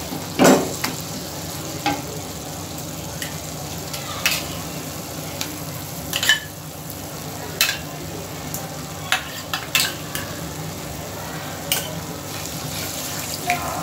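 Tomato-onion masala sizzling gently in a non-stick kadhai over a low flame. About nine short knocks and taps of a wooden spatula and spoon against the pan are scattered through it.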